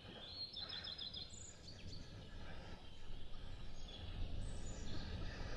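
Outdoor ambience: wind rumbling on the microphone, with songbirds chirping. A short run of quick high notes comes about half a second in.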